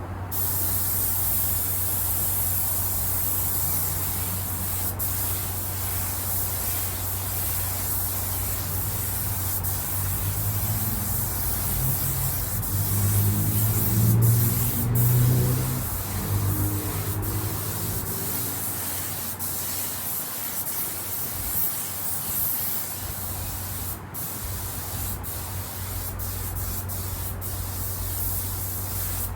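Spray gun hissing steadily as a coat of finish is sprayed onto leather car seats, over a steady low hum. A low droning sound swells and fades about halfway through, and a few short clicks come near the end.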